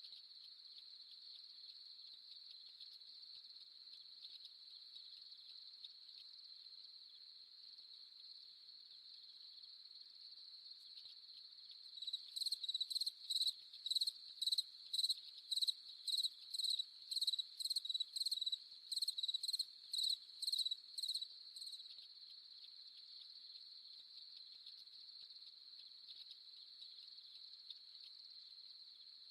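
Night chorus of crickets: a steady high-pitched trill throughout, joined about twelve seconds in by a louder, nearer chirping that repeats about twice a second for roughly ten seconds, then stops.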